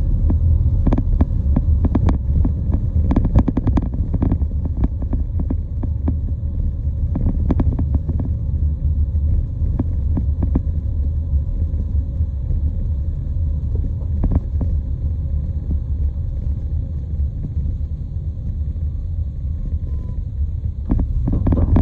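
Steady low vehicle rumble, with scattered clicks and knocks, more of them in the first few seconds and again near the end.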